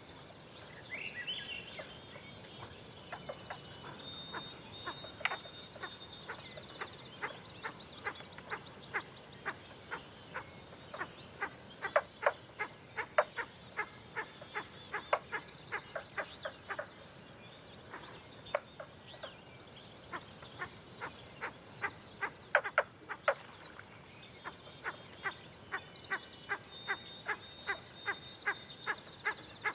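Frogs calling with short, sharp clicking notes, several a second, irregular and louder at moments. Above them, songbirds sing repeated high trills.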